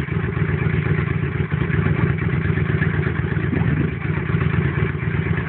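Motorcycle engine idling steadily, a fast even low pulsing.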